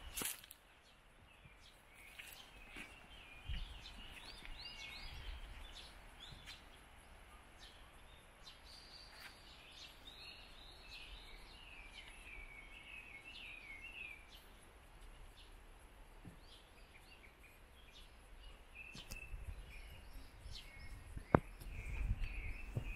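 Small birds chirping and calling in short repeated phrases over quiet outdoor background noise. One sharp click near the end.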